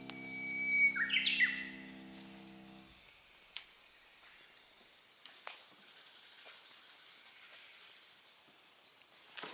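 A wild bird calling once, about a second in: a short held whistle followed by a quick run of rising and falling notes. It sounds over quiet outdoor ambience with a faint, steady high-pitched tone and a few small clicks.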